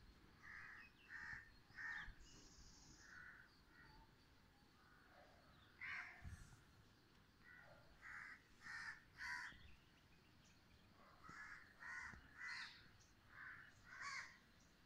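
Faint bird calls: short, harsh calls repeated in runs of three to five, over faint outdoor background noise.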